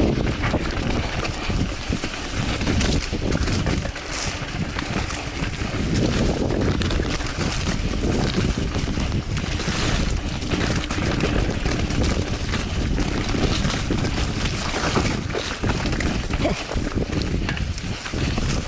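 Wind buffeting the microphone over the rolling, rattling noise of a Polygon Siskiu T8 full-suspension mountain bike riding down a rough, wet trail, with many short knocks and clatters from the bike and tyres.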